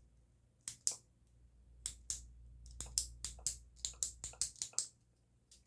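A run of sharp, close-up clicks and ticks: a pair about a second in, another pair near two seconds, then a quicker series of about ten in the second half.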